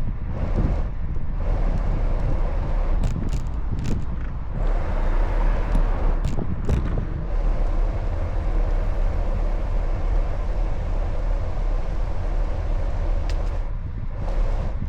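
Steady low rumble of wind and road noise on the microphone of a moving bicycle, with a few short clicks a few seconds in and again about six to seven seconds in.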